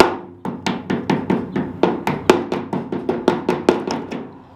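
Rapid hammer blows on a car's metal door trim, about five strikes a second, each ringing briefly, as the molding is knocked loose.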